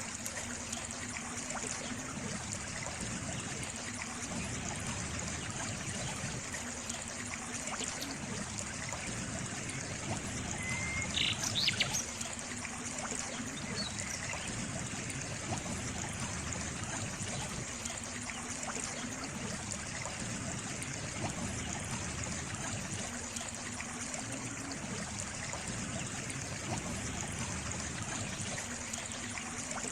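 Water trickling and running steadily in a stream. A short bird call cuts in about eleven seconds in.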